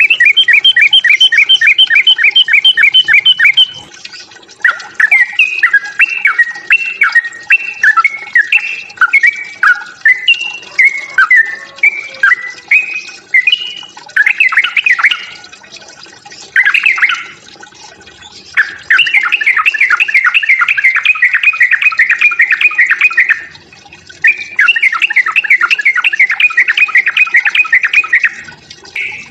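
Yellow-vented bulbul (trucuk) giving its agitated 'fighting' call, loud and insistent. It comes as long runs of rapid, even chattering notes, with a stretch of varied rising and falling phrases in between, broken by short pauses.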